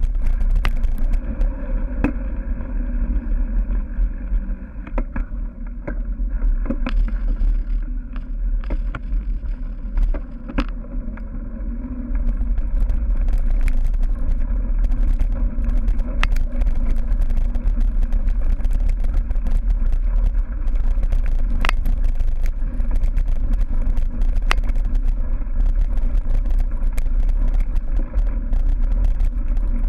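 Heavy wind rumble on a moving bike-mounted camera's microphone as a cyclocross bike is ridden over rough grass and dirt, with scattered sharp clicks and knocks from the bike jolting over the ground. The rumble eases briefly a few times in the first half.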